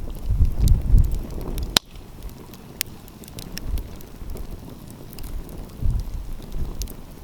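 Wood fire crackling with scattered sharp pops, one louder pop about two seconds in. Gusts of wind rumble on the microphone near the start and again near the end.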